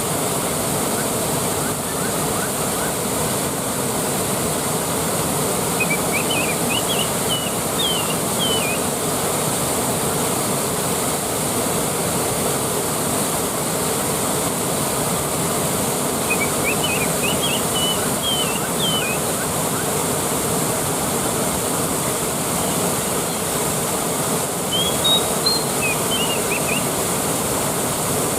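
Waterfall with a steady rush of water. A bird sings short chirping phrases over it about three times, spaced roughly ten seconds apart.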